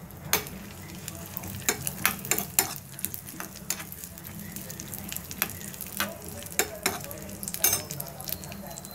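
Cashew nuts and raisins frying in ghee in a small pan, sizzling, while a steel spoon stirs them, scraping and clicking irregularly against the pan.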